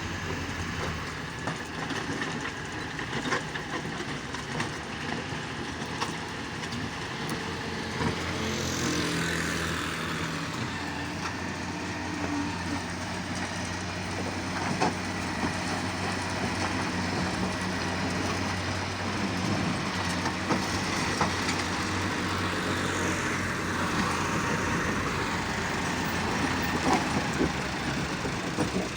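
Diesel engines of a motor grader and a loader tractor running steadily as they work, with a handful of sharp metallic clanks.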